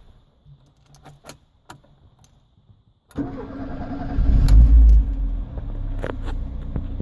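A few faint clicks, then about three seconds in the Mk4 Ford Escort 1.3's four-cylinder petrol engine starts, runs up briefly, and settles into a steady idle. It idles smoothly with no tappet tapping.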